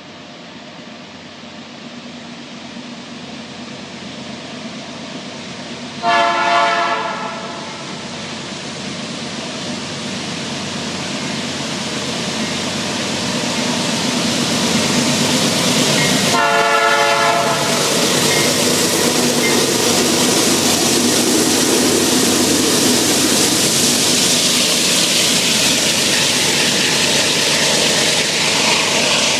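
Freight train led by a Canadian Pacific locomotive approaching and passing, the locomotive's air horn sounding two blasts of about a second each, about six and sixteen seconds in. The train's running noise grows steadily louder and stays loud as it passes.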